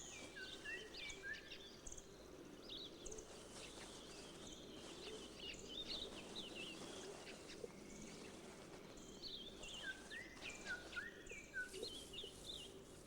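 Faint wild-habitat ambience of many small birds chirping and whistling: short calls scattered throughout, some sliding up or down in pitch, over a steady low background noise.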